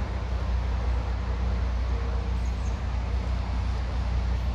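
Steady low rumble of road traffic noise, an even wash of sound with no single passing vehicle standing out.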